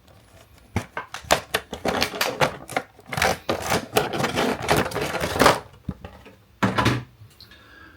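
Hard plastic packaging case being opened by hand and a small plastic model lifted out: a run of sharp clicks and snaps, denser and rattling in the middle, with a single bump near the end.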